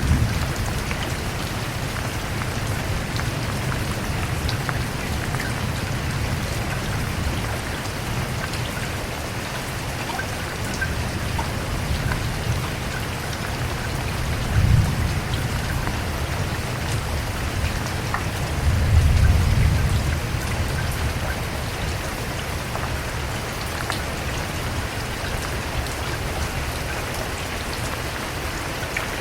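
Steady rain with individual drops pattering on a hard surface. Two brief low rumbles come about halfway through.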